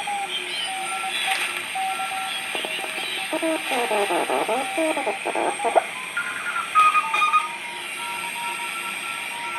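Audio from a Twinplex 6SL7 regenerative receiver tuned across the 40 m amateur band: Morse code (CW) tones at several pitches keyed on and off over band hiss. About three seconds in comes a stretch of garbled, warbling single-sideband voice.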